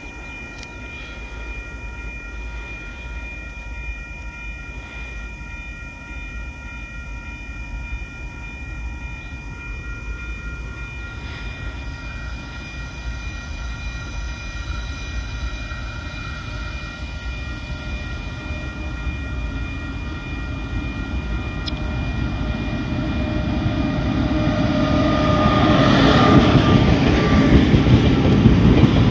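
KiwiRail diesel freight train approaching, its rumble growing steadily louder until the locomotive and container wagons pass close by near the end.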